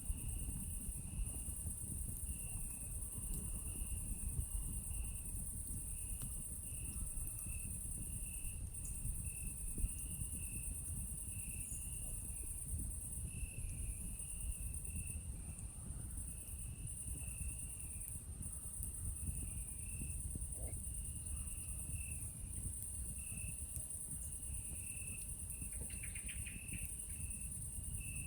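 A chorus of night insects: a steady high buzz with a lower, pulsing chirp running through it. Underneath is the soft crackle of a wood campfire.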